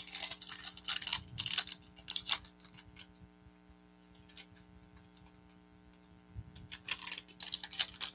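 Foil trading-card pack wrappers crinkling and tearing open by hand, in two spells of crackling: one for about the first two and a half seconds, another near the end.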